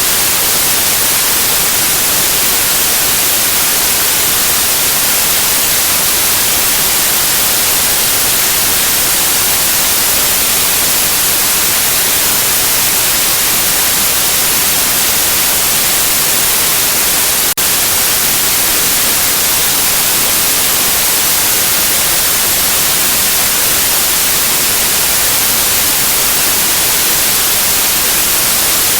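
Steady white noise, an even hiss brightest in the treble, with one brief click and dropout about two-thirds of the way through.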